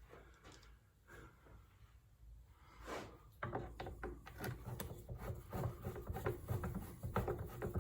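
Small parts and screws of a car's headlight assembly being handled and fitted by hand. It is faint at first, then from about three and a half seconds there is a busy run of small clicks, taps and rubbing.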